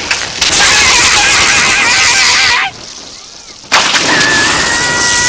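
Cartoon electric-shock sound effect: a loud crackling electrical buzz in two long bursts, the first with a wavering tone through it and the second with a steady hum, as someone is zapped by electricity.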